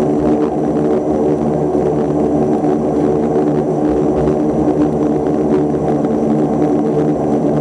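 Antonov An-24's two Ivchenko AI-24 turboprop engines running with a steady, even propeller drone.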